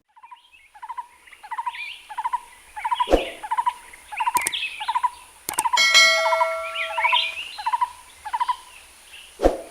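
A bird calling in a steady series of short, repeated chirps, with a few sharp clicks and a brief ringing tone about six seconds in.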